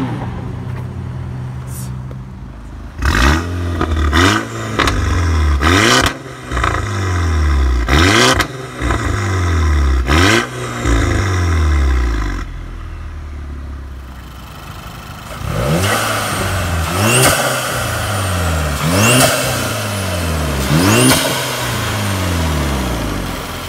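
Volkswagen Golf GTI's turbocharged TSI four-cylinder being free-revved in a series of sharp blips, roughly one every two seconds, with a short lull midway. The engine is fitted with an open cone-filter intake.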